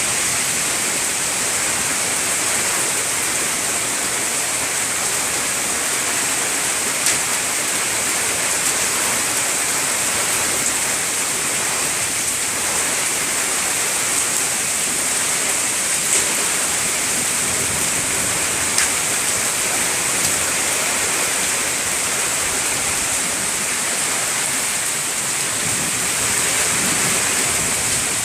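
Heavy rain pouring steadily in a thunderstorm, with a few sharp ticks of drops or stones striking something.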